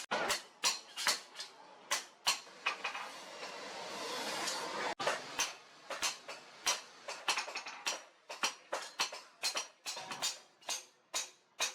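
Hand hammer striking leaf-spring steel on an anvil in a steady run of ringing metallic blows, about two to three a second. A hiss builds under the blows and stops suddenly about five seconds in.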